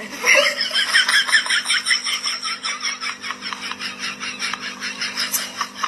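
Rapid, high-pitched laughter: a continuous stream of short giggling pulses, several a second, over a steady low hum.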